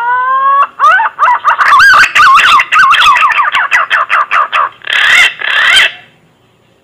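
Punai (green pigeon) lure call: a long rising whistle, then a fast run of wavering whistled notes, ending in two harsher notes about five seconds in.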